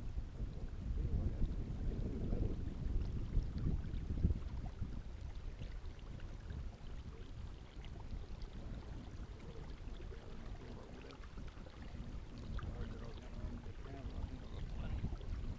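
Wind rumbling on the microphone over faint water splashing and lapping, as from a kayak paddle. The wind is strongest in the first few seconds.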